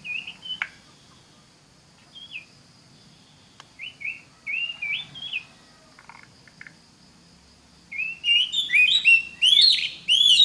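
Oriental magpie-robin (kacer) singing in short phrases of quick, repeated, upward-sliding whistled notes, with pauses between them. The song gets louder and busier near the end.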